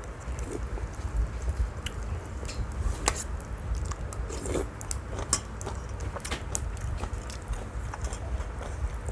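Crispy pork rinds (khaep mu) crackling in hot noodle soup: irregular small pops and crackles.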